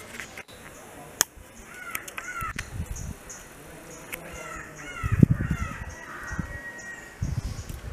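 A bird calling in short, repeated caw-like notes, in two runs about two seconds and five seconds in. A single sharp click comes about a second in, and there are a few low rumbles.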